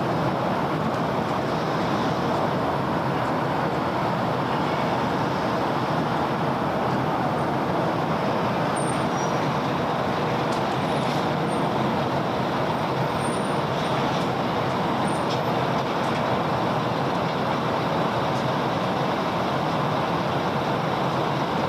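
Steady city road traffic: a continuous, even wash of passing vehicles' engines and tyres, with a few faint, short high squeaks about halfway through.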